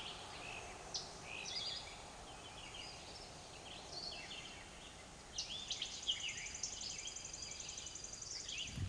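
Several wild birds singing and calling: short chirps and whistled phrases, joined about halfway through by a rapid, high trill of quickly repeated notes, over a steady background hiss.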